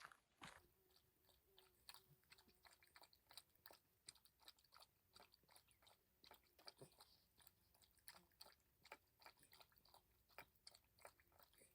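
A dog chewing and gnawing, a run of faint, irregular crunching clicks.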